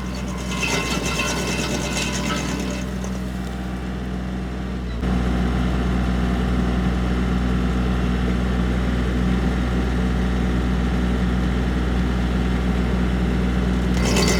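Tractor engine running steadily while driving a PTO stump grinder on a hardwood stump, with a harsh, rapid rattling cutting noise over it for the first two seconds or so and again near the end. The engine sound gets abruptly louder about five seconds in.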